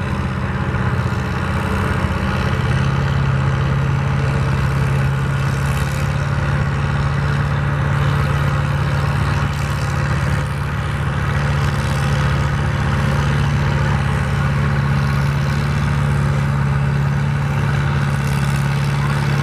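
Tractor engine running steadily at a constant pitch, a heavy, even hum with no revving.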